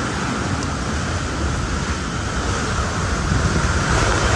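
Strong storm wind blowing across the microphone: a steady rushing noise with heavy low buffeting.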